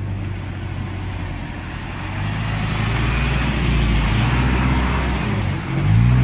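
Heavy truck engine working hard, getting louder about two seconds in, with a rise in engine pitch near the end as it revs.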